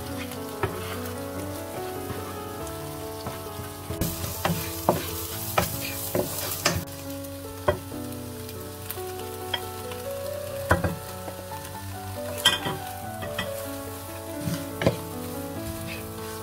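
Egg, sausage and vegetables stir-frying in a nonstick wok: oil sizzling while a wooden spatula scrapes and taps against the pan. Shredded cabbage and leafy greens are tipped in and tossed, with a louder stretch of sizzling a few seconds in.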